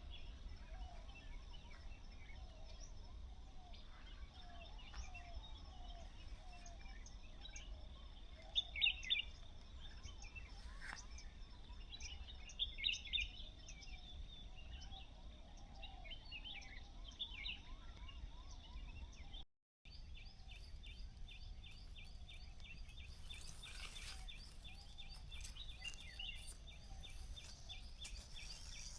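Several birds chirping and calling over a steady low background rumble, with louder bursts of calls about nine and thirteen seconds in. The sound drops out for a moment partway through, and quick repeated chirps follow.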